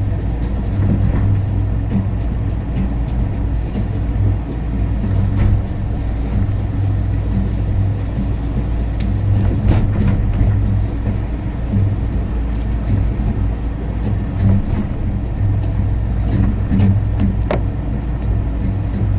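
Skyrail suspended people-mover car running along its cable-hauled line: a steady low rumble and hum, with scattered light clicks and ticks.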